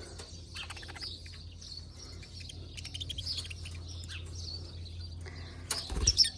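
Birds chirping and twittering in short high notes and quick rattling runs, over a steady low hum. A loud bump sounds about six seconds in.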